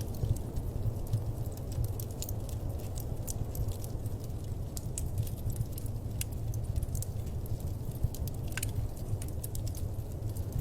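Wood fire crackling in a fireplace: frequent sharp, irregular pops and snaps over a low, steady rumble.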